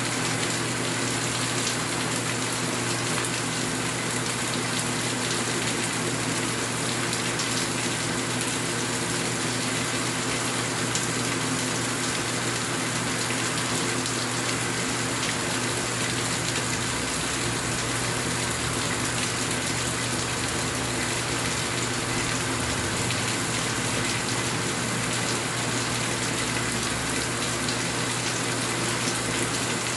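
Steady rain: an even, unbroken hiss of falling water that does not change.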